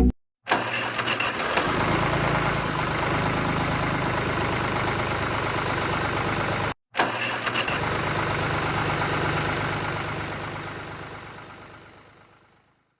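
Small engine running steadily, with a few clatters near the start. It cuts off abruptly about seven seconds in, resumes at once, and then fades away.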